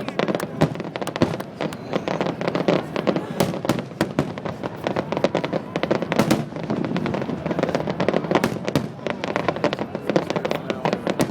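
Fireworks finale: a rapid, nearly continuous barrage of aerial shells bursting, many bangs a second with crackling between them.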